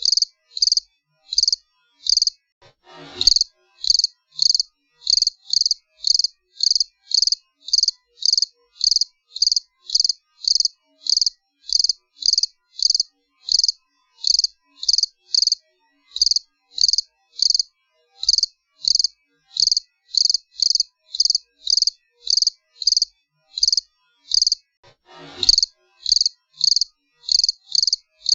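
Cricket chirping steadily in short, evenly spaced chirps, about two a second. Twice, about three seconds in and again near the end, a brief falling sweep ends in a click.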